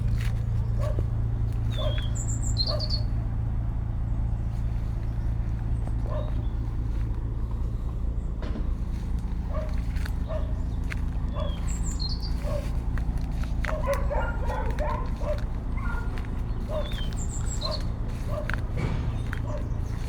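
A dog barking repeatedly, roughly once a second, over a steady low hum, with a few high bird chirps.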